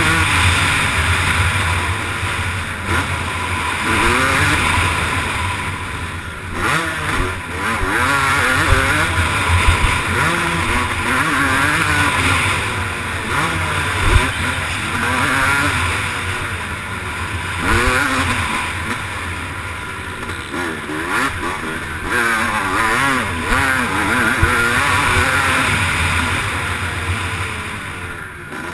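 Motocross bike engine under race load, revving up and dropping back again and again through throttle and gear changes, heard close up from on board with rushing wind noise. A few sharp knocks stand out, about 9, 10 and 14 seconds in.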